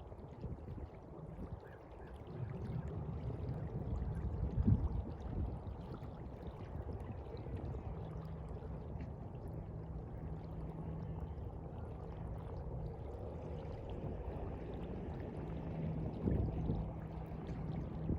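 Sea water sloshing and washing in low, uneven swells, with two louder surges. A steady low hum joins about eight seconds in.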